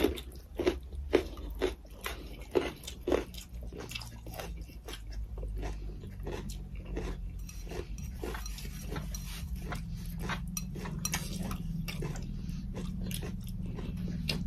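Close-miked eating sounds: chewing and wet mouth clicks as mouthfuls of chicken curry and rice are eaten by hand, a few clicks a second, over a low steady hum.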